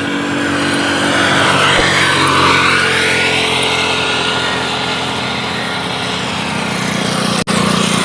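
Small motor vehicle engine running steadily, with a swell of passing noise that dips and rises about two to three seconds in. The sound drops out for an instant near the end.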